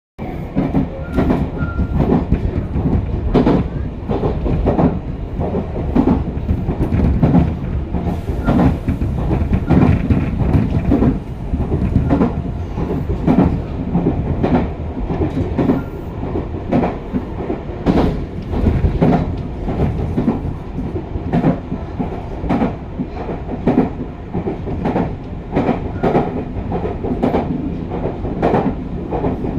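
Train running along its track: a steady low rumble with repeated clacks of the wheels over the rail joints.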